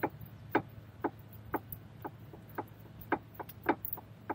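Short light knocks or clicks, about two a second, over a low steady hum.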